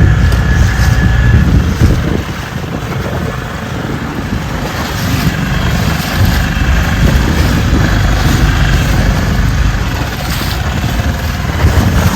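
Boat motor running steadily under load while towing a yacht, with an uneven low rumble of wind on the microphone.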